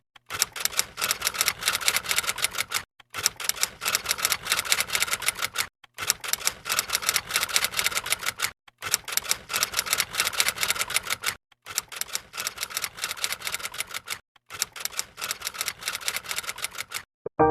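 Rapid typing clicks, like a keyboard or typewriter, in runs of about two and a half seconds broken by short, clean silences.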